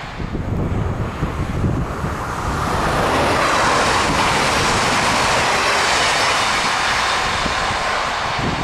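Double-deck electric passenger train passing close at speed: steady rumble of wheels on the rails and a rush of air, growing louder about three seconds in as the carriages go by alongside.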